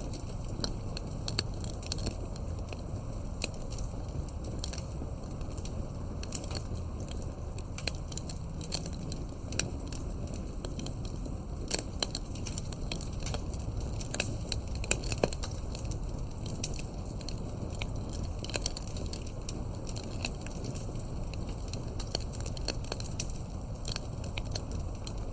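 Wood campfire crackling: irregular snaps and pops over a steady low rumble, with a few sharper pops about halfway through.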